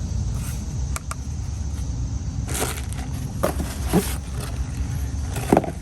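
Handling noises: several short rustles and clicks, a second or so apart, over a steady low rumble.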